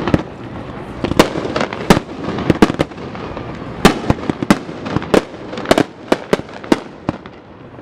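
Fireworks going off: a rapid, irregular run of sharp bangs and cracks, often several close together, a little thinner near the end.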